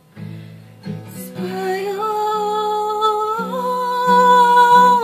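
Acoustic guitar picking chords while a woman sings one long wordless held note that steps up slightly in pitch about halfway through.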